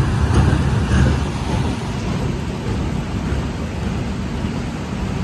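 Freight train's last wagons and brake van rumbling past close by, with a few wheel clacks; about a second and a half in the rumble drops away, leaving a steady hiss of heavy rain.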